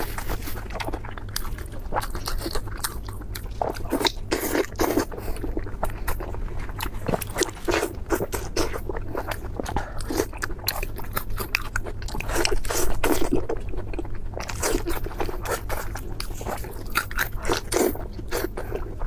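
Close-miked eating sounds: a person biting and chewing crunchy food, with rapid irregular crackles and crunches.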